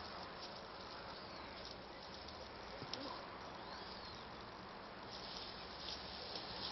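Faint, steady chorus of crickets chirring.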